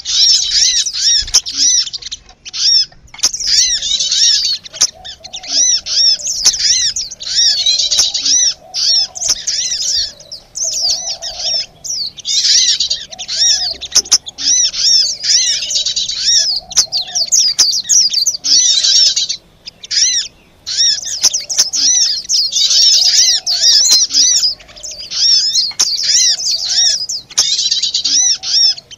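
Bird-lure recording of many small songbirds calling noisily together: dense, rapidly repeated high chirps in overlapping bursts with brief gaps, mixed with agitated calls of the kind played to draw small birds in.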